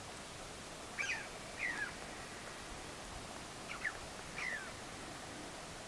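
A bird calling over a faint steady outdoor hiss: short chirps falling in pitch, in two pairs, about a second in and again near four seconds.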